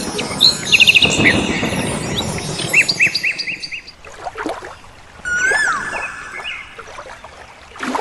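Birds chirping and calling. Quick repeated chirps over a rushing noise in the first half, then a few whistled calls that rise and fall, about five seconds in and again at the end.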